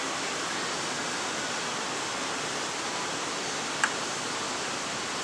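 Steady, even hiss of background noise, like a fan or air moving, with one short sharp click a little under four seconds in.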